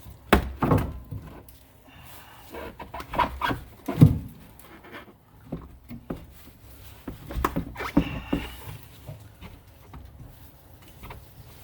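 Irregular metal clunks and scraping as the loosened old rear strut is worked free of its mount with a pry bar. The loudest knock comes about four seconds in, and a cluster of knocks comes near the end.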